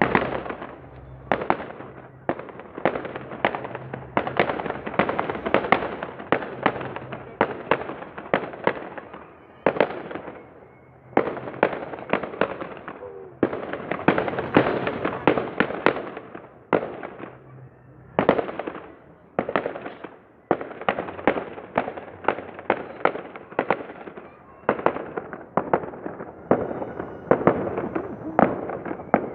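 Aerial fireworks bursting in rapid volleys: sharp bangs several times a second with crackling between them. The volleys ease off briefly about ten, seventeen and twenty seconds in.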